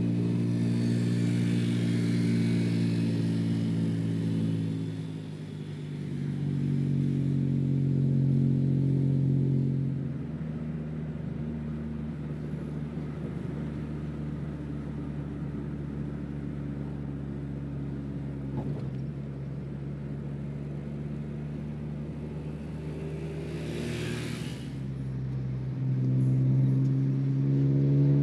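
Car engine heard from inside the cabin while driving. Its note climbs and drops as the car accelerates and eases off, runs lower and steadier through the middle, and climbs again near the end. A brief whoosh, like a passing vehicle, comes a few seconds before the end.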